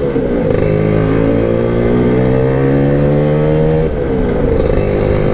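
Lambretta scooter's two-stroke engine pulling under way, its pitch rising steadily for about three and a half seconds, then dropping sharply near the end and starting to climb again.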